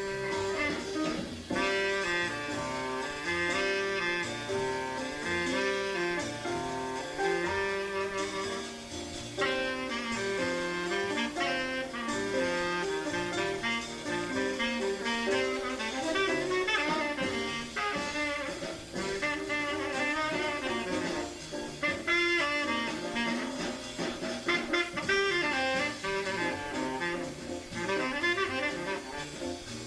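Jazz recording: a tenor saxophone improvising in quick runs of short notes over bass and rhythm-section accompaniment, in an uptempo bebop tune.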